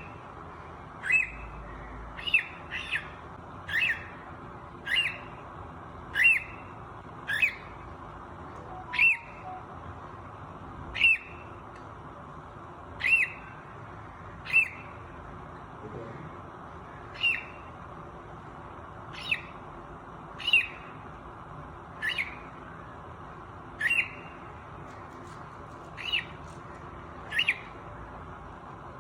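Young cockatiel calling: short, sharp squawks repeated every second or two, each dropping slightly in pitch, over a steady low hiss.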